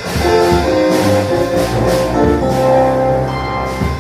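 Live church band music: held chords with a few drum hits.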